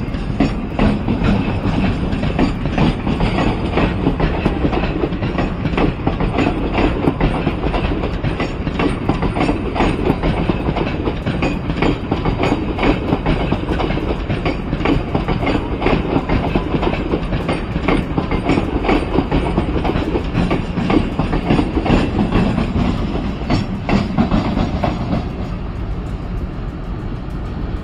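A local passenger train's coaches running past, their wheels clicking steadily over the rail joints. Near the end it gives way to a quieter passing freight train.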